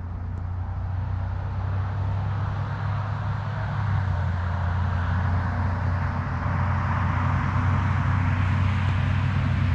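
Pickup truck engine running with a steady low hum and road noise, growing gradually louder.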